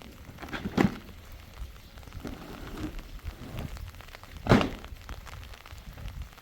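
Two heavy thuds, about four seconds apart, the second the louder, over a steady low background rumble.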